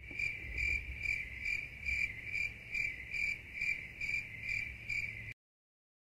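Stock "crickets" sound effect: a cricket chirping in even pulses, a little over two a second, over a faint low rumble. It cuts off suddenly about five seconds in.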